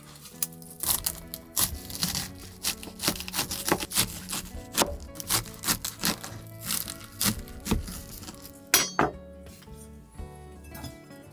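A busy run of short knocks and clatters, a few each second, with the two loudest close together about nine seconds in, over soft background music.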